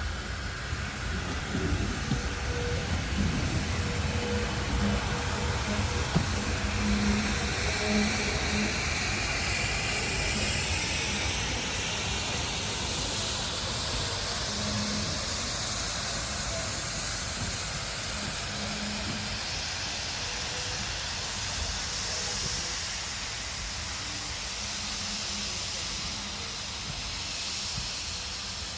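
Steam locomotive hissing steam steadily over a low rumble, with a few louder knocks in the first eight seconds.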